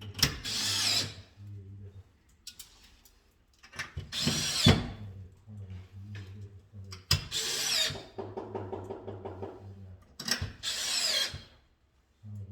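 Cordless drill-driver running in four short bursts of about a second each, its motor pitch falling away at the end of each burst, with light ticking between bursts.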